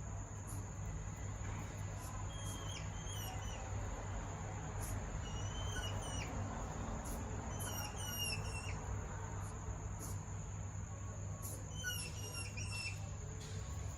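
Mini hedgehogs mating, giving short, high chirps that fall in pitch. They come in small clusters every few seconds over a steady low hum.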